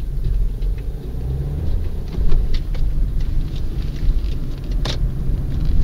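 Car running with a steady low rumble, with scattered light clicks and one sharper click about five seconds in.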